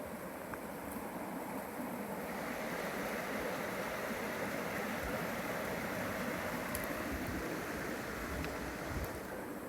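Creek water running steadily, a little louder from about two seconds in, with a few soft low bumps.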